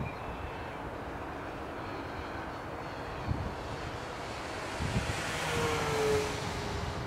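FMS B-25 Mitchell RC model's twin electric motors and propellers droning in flight, swelling as the plane passes close about five to six seconds in, the pitch dropping as it goes by. Two short low thumps come a few seconds in.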